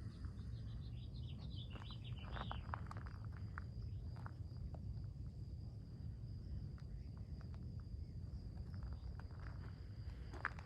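Quiet rural outdoor ambience: a steady high-pitched insect trill over a low rumble, with a few short, sharp sounds in the first three seconds.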